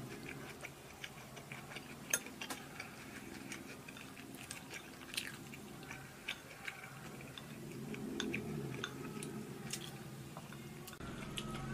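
Close-miked chewing and mouth sounds from someone eating, with scattered sharp clicks of chopsticks against a porcelain dish and rice bowl.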